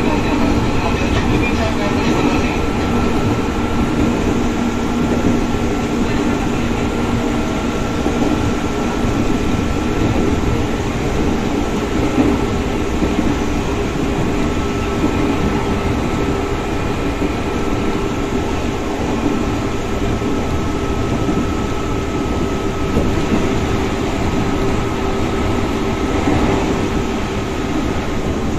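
Inside the cabin of a moving KRL commuter electric train: a steady rumble of wheels on rail with a constant high whine running through it.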